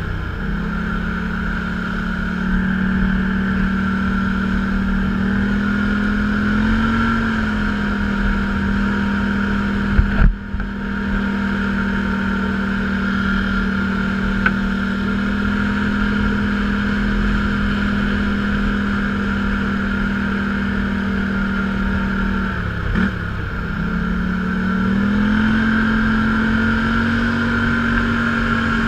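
Off-road vehicle engine running at a fairly steady speed, its pitch rising a little twice. A short sharp thump about ten seconds in.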